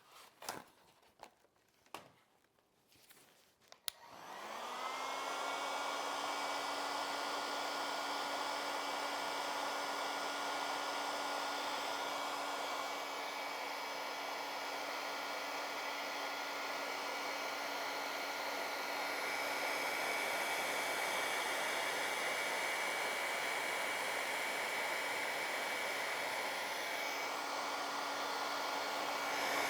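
A few light clicks and knocks. Then, about four seconds in, a hair dryer switches on, its motor whining up to speed, and blows steadily. It is blowing out a stack of poured acrylic paint on the canvas.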